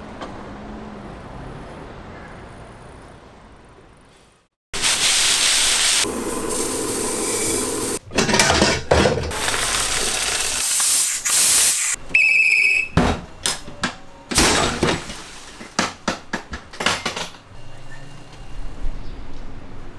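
A puffed-rice (뻥튀기) popping cannon releasing its pressure: long, loud hissing blasts of steam, a short whistle blown as a warning, and a run of sharp bangs and clanks. Before that, a few seconds of quiet background that fades out.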